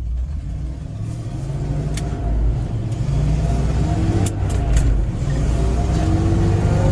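Grain truck engine pulling away and accelerating, its rumble getting louder over the first few seconds, with a few sharp clicks along the way.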